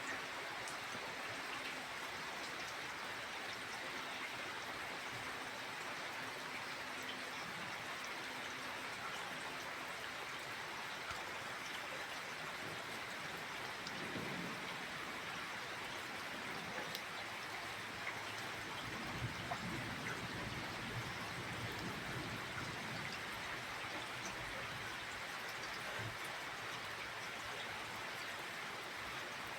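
Steady summer rain falling, an even hiss with scattered individual drops. A low rumble comes in about halfway through, and another runs for several seconds after it.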